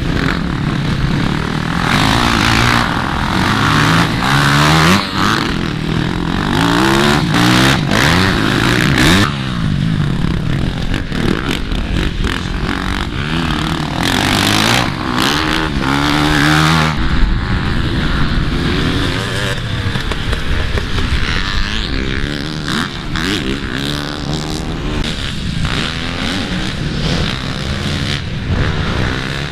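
Several motocross dirt bikes racing, their engines revving, with overlapping engine notes rising and falling in pitch.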